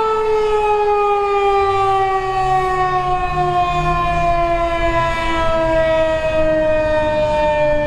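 Federal Signal 2001-130 electromechanical outdoor warning siren winding down, its tone falling slowly and steadily. A low hum comes in underneath about two seconds in.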